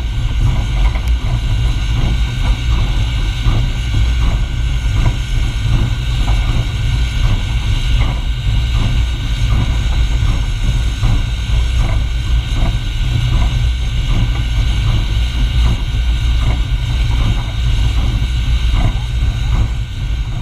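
A steam-hauled train in motion, Reading & Northern 425's excursion train: a loud, steady heavy rumble with a regular clicking about one and a half times a second.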